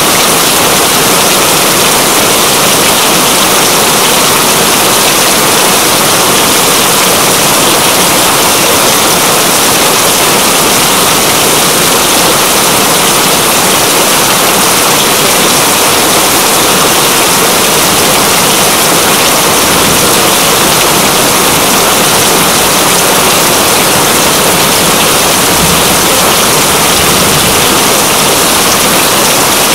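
Steady, heavy rain: a dense, even hiss of falling water that does not let up.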